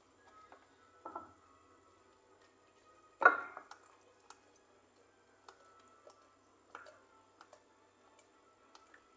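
Kitchen utensils and dishes being handled: scattered light clicks and taps, with one sharper clink that rings briefly about three seconds in.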